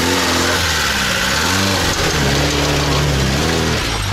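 Lada Niva's engine revving hard under load, its note swinging up and down as the throttle is worked. Its tyres spin and dig through dry sand with a steady hiss as the car claws its way up out of a sandy pit.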